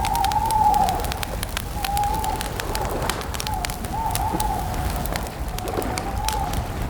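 Campfire crackling with many sharp pops over a low rumble, while a bird gives a wavering, pitched call several times over.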